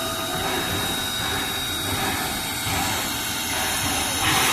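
H.K. Porter 0-6-0T steam switcher locomotive running with a steady hiss of steam over a low rumble, with a louder burst of hiss near the end.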